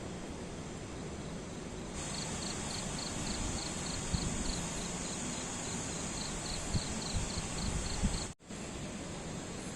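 An insect, likely a cricket, chirping in short regular pulses about three times a second over a steady rushing outdoor hiss, with a few soft low thumps. The sound drops out for an instant a little after eight seconds.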